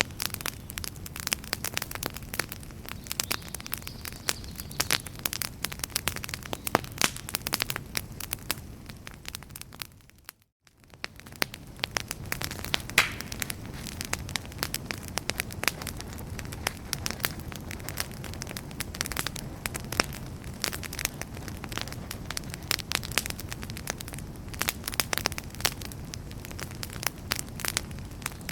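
Wood campfire crackling, with frequent sharp pops and snaps over a steady low rumble of burning. The sound drops out almost completely for a moment about ten seconds in, then the crackling resumes.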